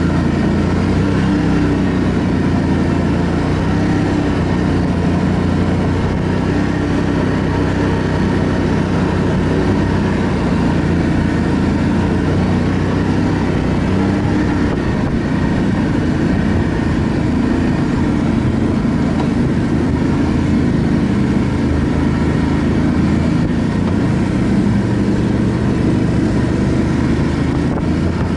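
ATV engine running steadily while riding along.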